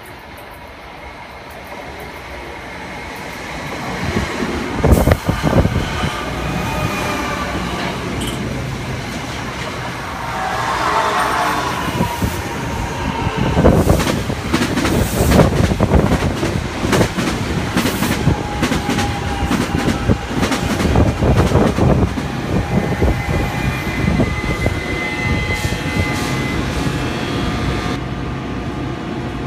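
New Jersey Transit Arrow III electric multiple-unit train approaching and passing close by, growing louder over the first few seconds. As the cars go by, the wheels make rapid clicks over the rail joints.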